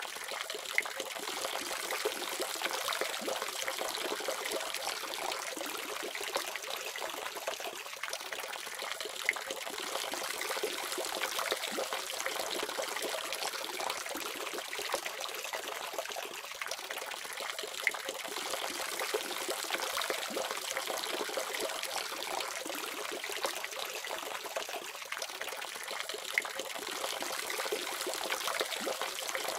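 Water running steadily from a faucet, a continuous trickling splash with small drips and ticks in it.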